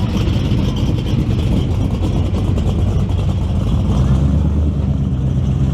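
A car engine running close by with a low, pulsing rumble, which turns to a steadier hum about four seconds in.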